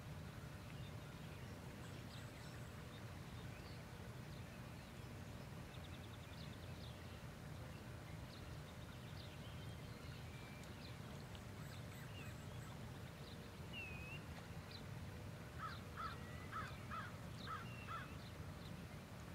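Birds calling over a steady low rumble: small chirps scattered throughout, then a larger bird calling about six times in quick succession near the end.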